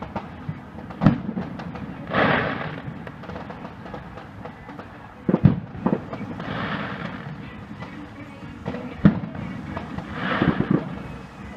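Display fireworks going off: four sharp bangs of bursting shells (about a second in, two half a second apart near the middle, one near 9 s), between three longer, noisier bursts lasting under a second each.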